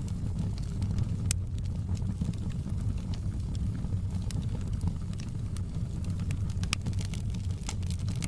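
Wood fire in a fireplace crackling: sharp pops and snaps scattered irregularly over a steady low rumble of the burning fire, the loudest pops about a second in and again near the end.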